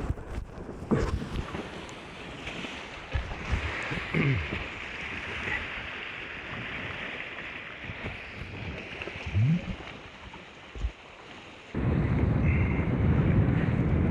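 Wind and water rushing past a Hobie 16 catamaran under sail, with a few short sliding squeaks. About twelve seconds in, wind buffeting on the microphone suddenly gets much louder and rumbles low.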